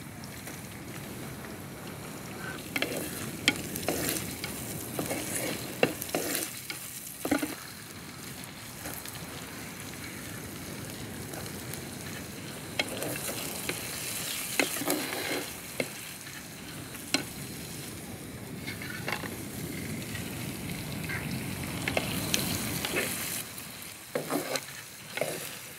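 Onions, curry leaves and vegetables frying and sizzling in oil in an earthen clay pot, with a spatula stirring and scraping against the pot now and then.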